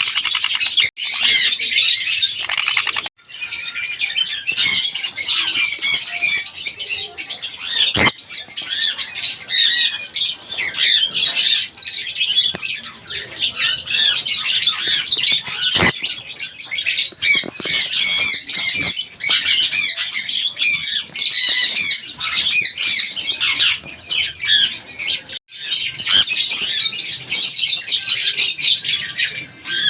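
Sun conure calling rapidly and almost without pause, a dense run of shrill, high-pitched calls that breaks off briefly about 3 seconds in and again near 25 seconds. Two sharp clicks, about 8 and 16 seconds in.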